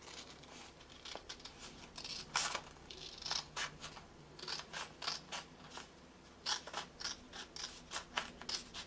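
Scissors snipping through a sheet of paper: a series of short, sharp cuts at an uneven pace as a square is cut out along a fold.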